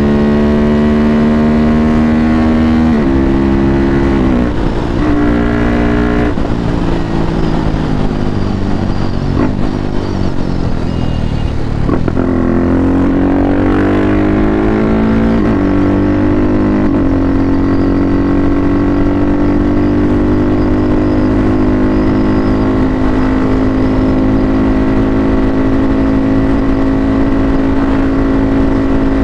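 KTM RC 390's single-cylinder engine through an Akrapovič full exhaust system, accelerating up through the gears with several quick shifts in the first six seconds. The revs then fall away, climb again, and settle into a steady cruise for roughly the last twelve seconds.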